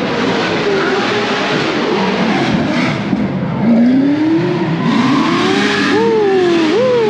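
Drift cars competing on the nearby track, really loud: a dense wash of engine and tyre noise, then about halfway through an engine revs up and falls back repeatedly, its pitch climbing several times in quick succession as the car is driven hard on the throttle.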